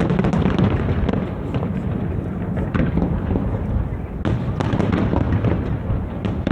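Aerial fireworks bursting in a dense, continuous barrage of overlapping bangs and crackles, with a fresh volley breaking out about four seconds in.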